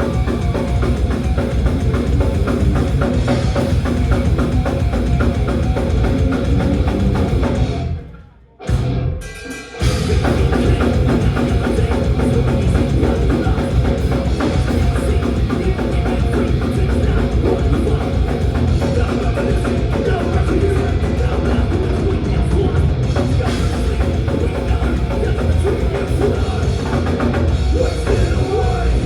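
Live thrash metal band playing loud and fast, with a drum kit and pounding bass drum driving the music. About eight seconds in the music breaks off suddenly for a couple of seconds, then comes crashing back in.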